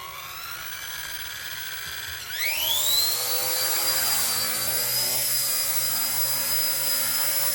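Small electric RC helicopter, a 1/48 scale Huey, spooling up: the motor and rotor whine rises gently, then about two seconds in sweeps quickly up in pitch and settles into a steady, louder high whine as it goes to flying speed.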